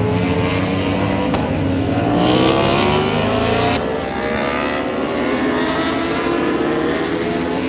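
Racing superbike engines at high revs, the pitch climbing steadily as they accelerate. The climb breaks off about four seconds in and then starts rising again.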